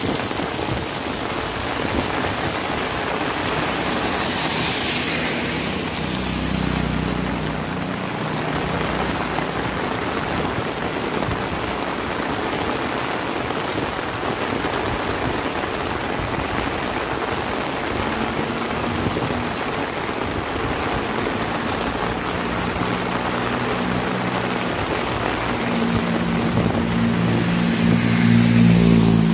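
Heavy rain falling steadily. A vehicle hisses past on the wet road about five seconds in, and near the end a vehicle's engine grows loud as it approaches.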